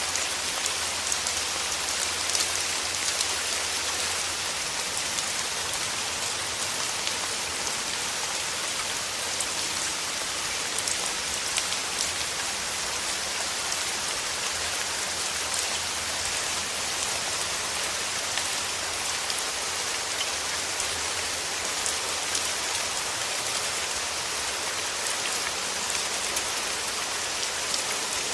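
Steady rain falling: an even hiss with many small drops ticking, unchanging throughout.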